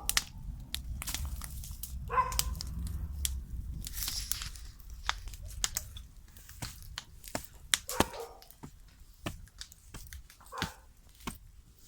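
A dog barks three times, short single barks spread a few seconds apart, among many sharp crackles and rustles.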